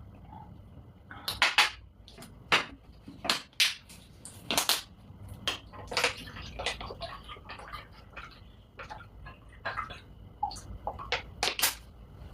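A person eating close to the microphone: a string of short, sharp, irregular mouth clicks and smacks from chewing, with light clinks of cutlery on dishes.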